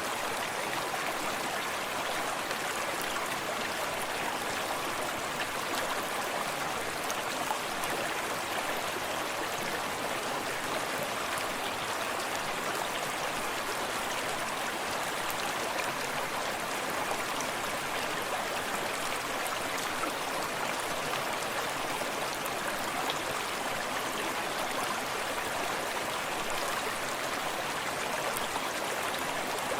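A small forest stream running steadily over rocks, an even rushing burble of water with soft splashes.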